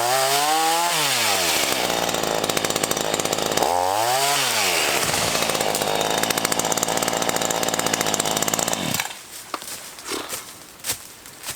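Black Max 16-inch chainsaw cutting into wood. It revs up and its pitch sags as the chain bites, twice, then runs steadily through the cut. It stops abruptly about nine seconds in.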